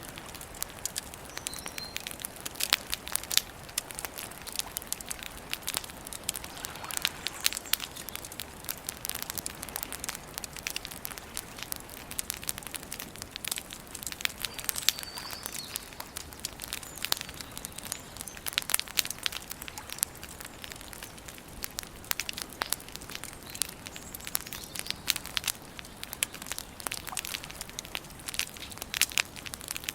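Wood campfire crackling, with frequent sharp, irregular pops and snaps over a steady hiss of burning.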